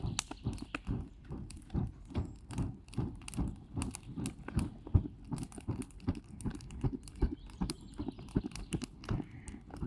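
Wood campfire crackling, with many irregular pops and snaps.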